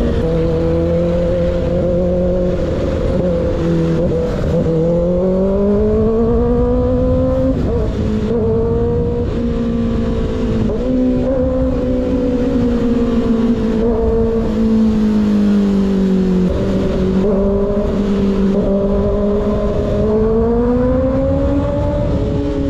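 Sport motorcycle running with an unbaffled slip-on exhaust at riding speed, its engine note falling and climbing as the throttle is worked: a dip and climb a few seconds in, another dip about two-thirds through, and a rise near the end, over a low rush of wind.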